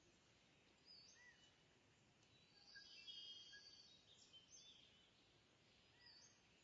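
Faint birdsong: scattered short chirps, with a brief busier run of twittering about three seconds in, over a low steady hiss.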